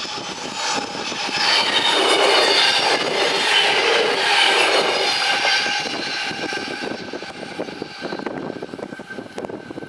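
Arriva Stadler GTW diesel train passing over a level crossing, its rumble and wheel noise swelling to a peak about two to five seconds in and then fading as it moves away.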